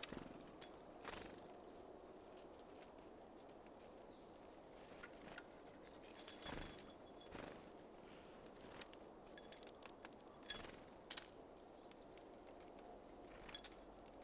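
Quiet outdoor ambience with scattered light taps and clicks from small birds at a seed feeder, and a few faint, high chirps.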